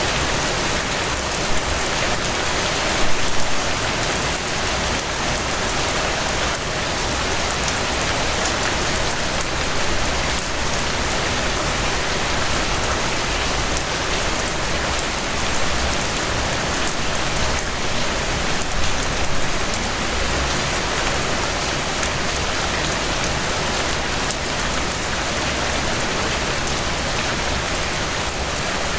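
Steady rainfall pattering on surfaces, with fine dense drop crackle and no thunder.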